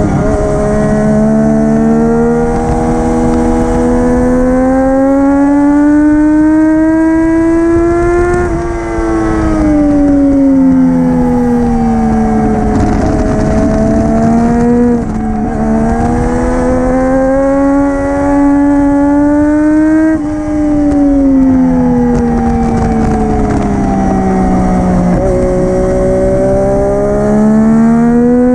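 Triumph Daytona 675R three-cylinder engine through an Arrow full-system titanium race exhaust, at full race pace. The engine note climbs steadily under hard acceleration for several seconds, then falls away as the bike slows, and this repeats about three times.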